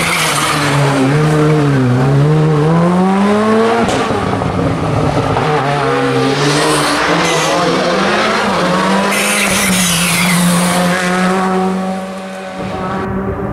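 Rally car engine revving hard on a stage, its pitch dipping and climbing repeatedly with gear changes and throttle, with tyre noise; it fades somewhat near the end.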